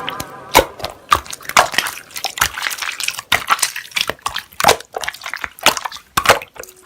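Slime being squeezed and stretched by hand, giving a run of irregular wet clicks and pops, several a second.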